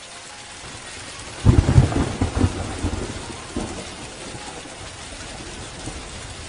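Steady rain hissing, with a clap of thunder about a second and a half in that rumbles and dies away over about two seconds.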